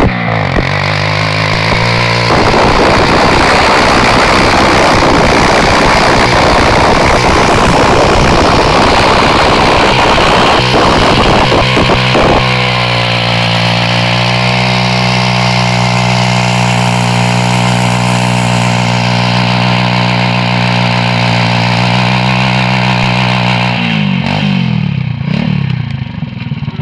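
X-motos XB33 140cc pit bike engine held at high revs during a burnout, its rear tyre spinning on the ground. About two seconds in the sound turns harsh and noisy for some ten seconds, then settles into a steady high rev, and near the end the revs fall away toward idle.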